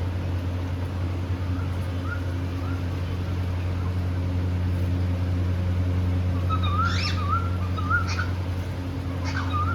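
Pet cockatiels chirping and warbling in short wavering notes. The notes are faint at first and grow busier in the second half, with a few sharp calls. A steady low hum runs underneath.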